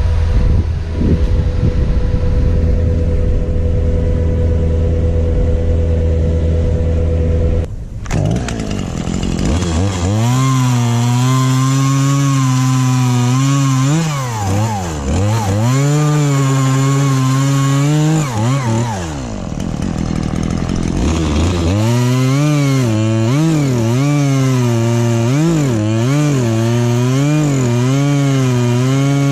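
A steady engine drone that stops about eight seconds in. Then a Stihl chainsaw runs at high revs cutting oak, its pitch sagging and recovering again and again as the chain bites into the wood, easing off briefly midway.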